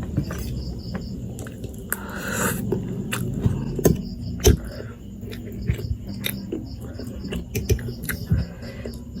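A person eating close to the microphone: wet chewing and mouth sounds with irregular sharp clicks and smacks.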